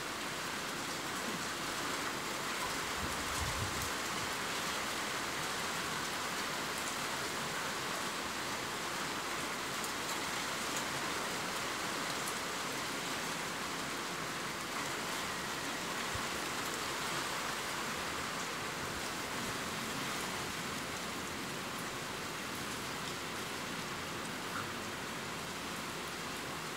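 Steady rain falling: an even hiss with scattered drop ticks, and a brief faint low thump about three seconds in.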